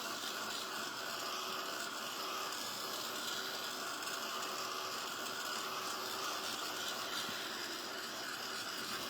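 Small electric heat tool blowing steadily, drying a wet coat of Mod Podge.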